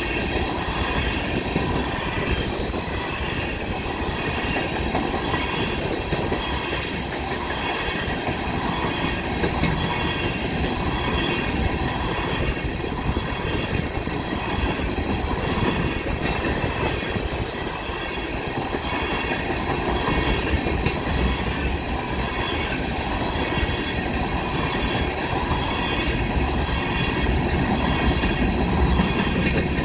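Coal train cars rolling past, a steady rumble and clatter of wheels on rail with a continuous high-pitched wheel squeal over it.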